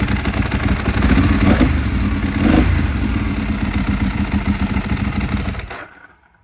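2008 Ducati 1098's L-twin engine running at idle, with two short throttle blips about a second apart and the clatter of its dry clutch. The sound cuts off suddenly near the end.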